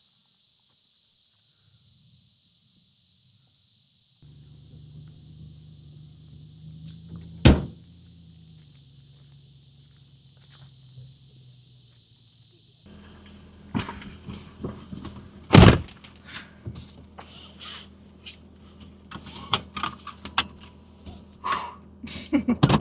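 Steady high insect drone, with a low steady hum joining about four seconds in and a single sharp knock a few seconds later. After an abrupt change about thirteen seconds in, the drone drops away and a run of knocks and thuds follows, the loudest a couple of seconds later.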